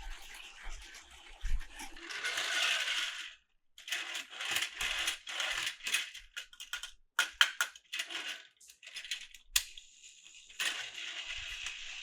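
Hard plastic toy pieces clicking and clattering, with stretches of steady hiss between.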